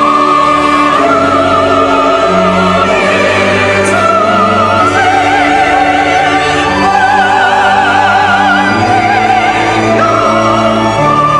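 Church choir singing a sacred anthem in long held notes with wide vibrato, with instrumental accompaniment underneath.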